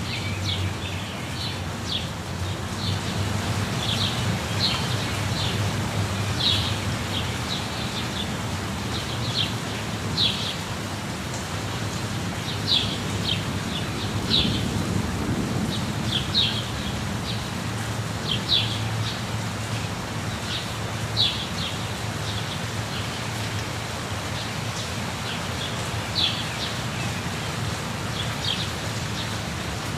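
Steady rush of a waterfall, heavy in the low end, with a bird giving short high chirps every second or two.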